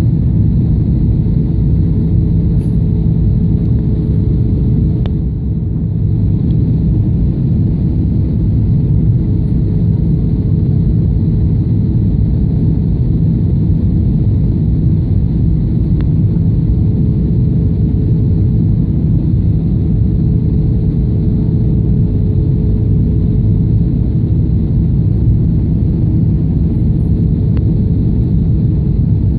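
Steady cabin noise of a jet airliner on its landing approach: a loud, unbroken low rumble of engines and airflow with a constant hum above it.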